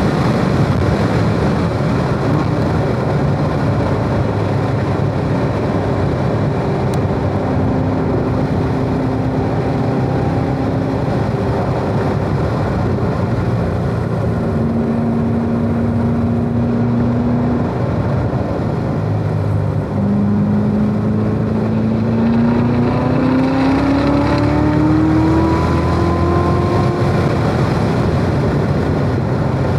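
Corvette Z06's supercharged V8 heard from inside the cabin over road and wind noise on a track lap: running at high speed, easing off and dropping a gear for a slow corner, then accelerating hard in third with the engine note rising steadily for several seconds in the second half.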